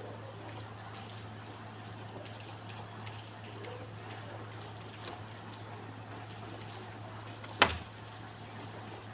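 Steady rain with trickling water, over a low steady hum. A single sharp click or knock comes near the end.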